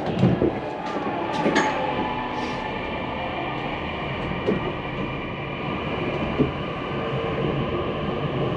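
Tokyu Ikegami Line train running, heard from inside the car: a steady rumble of wheels on rail with a few sharp knocks over rail joints, and a steady hum coming in near the end.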